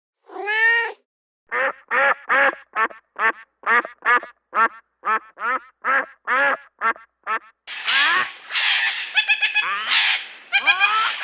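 Animal calls: one longer call, then a quick run of about a dozen short, clear calls, roughly two a second. From about eight seconds in, a denser, noisier jumble of calls takes over.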